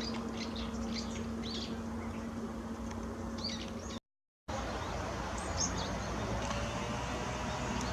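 Small birds chirping in short calls over a steady background rumble. The sound drops out completely for about half a second around the middle, then returns with fewer, fainter chirps.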